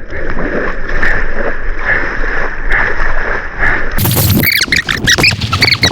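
Water rushing around a small boat in river rapids. About four seconds in it turns into a much louder burst of splashing, with short high-pitched yells over it.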